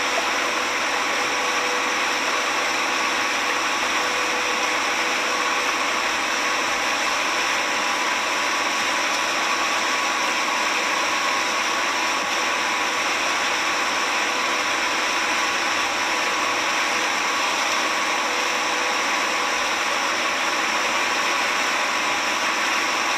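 A steady whirring machine noise, unchanging, with a faint constant whine in it.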